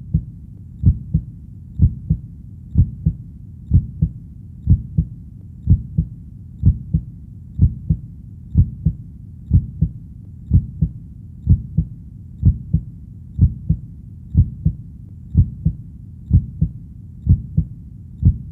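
Heartbeat sound, a steady lub-dub of paired low thumps about once a second, over a low steady rumble.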